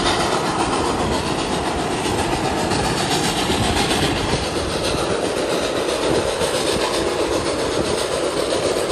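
Steady rolling noise of a steam-hauled passenger train, heard from on board a coach: steel wheels running on the rails as the train moves at speed.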